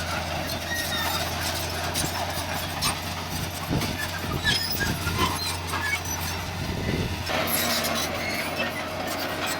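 Heavy diesel engine of earth-moving machinery running steadily with a constant low hum, with scattered metallic clanks and knocks.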